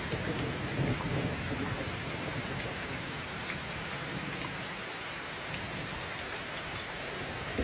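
Steady heavy rain falling, with scattered individual drop ticks. A low rumble sits under it for the first couple of seconds and eases off.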